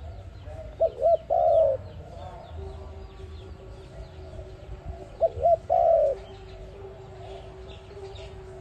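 A dove cooing twice, about four seconds apart. Each call is two short coos followed by a longer, drawn-out coo. Small birds chirp faintly behind it.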